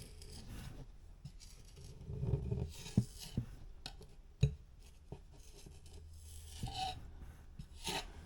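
Faint scraping and rubbing of a putty knife working spackle into and over a drywall patch, with a few sharp taps, the clearest about three and four and a half seconds in.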